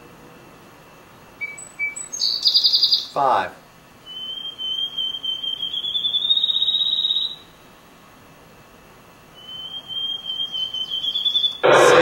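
Recorded birdsong played back: a run of repeated whistled notes that speeds up into a slightly rising trill, heard twice. Before the first song come a few short high notes and a brief harsh call, and a loud harsh call sounds at the end.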